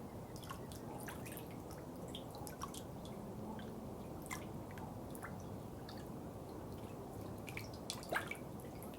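Water dripping: irregular drops falling at random intervals over a steady low water murmur, with one louder rising plink about eight seconds in.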